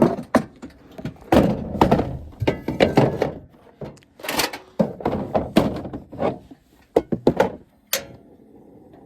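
Camp cooking gear being handled: a rapid series of knocks, thuds and clatters, like a door or lid shutting and hard items being set down. About a second before the end the knocking stops and a faint steady hum takes over.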